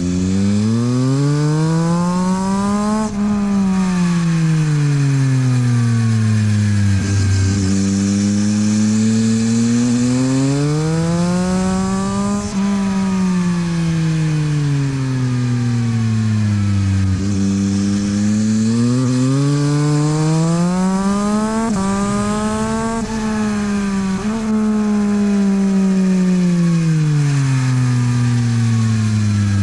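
Yamaha MT-09 SP's three-cylinder engine through a LeoVince exhaust, lapping a track. It rises in pitch under hard acceleration three times, with quick breaks at the gear changes, and falls away each time while slowing for the corners. Wind rush is heard at speed.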